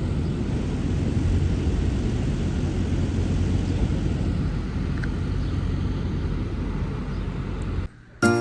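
Semi truck's diesel engine running, a steady low rumble with a constant deep hum, which cuts off abruptly near the end.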